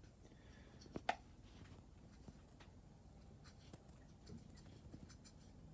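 Near silence: faint room tone, with two quick faint clicks about a second in and a few fainter ticks after.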